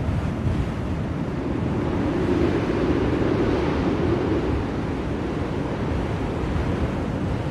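Blizzard wind blowing steadily, a low rushing noise that swells in a gust from about two seconds in and eases again after about four and a half seconds.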